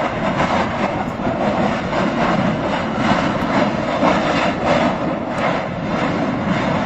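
Steady, loud roar of an erupting volcanic summit crater spitting lava, with many short pops and cracks running through it.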